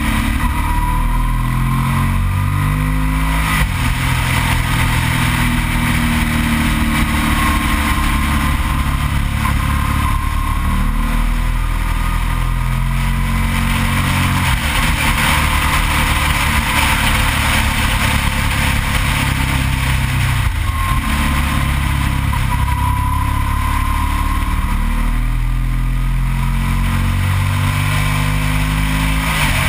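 Yamaha TDM 900's parallel-twin engine running under way, its revs climbing and dropping several times, with wind rushing over the microphone.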